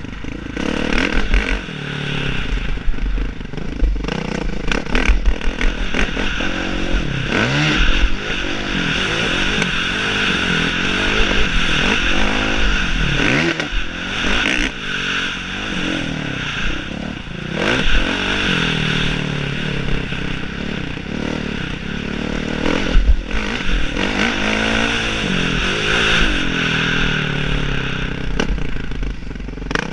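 Motocross motorcycle engine being ridden hard, revving up and dropping back again and again, its pitch rising and falling every few seconds.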